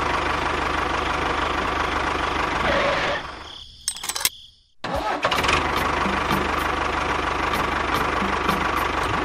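Small electric motor of a homemade model tractor running steadily with a high whine. It dies away about three and a half seconds in, a few clicks follow, and it starts running again about a second later.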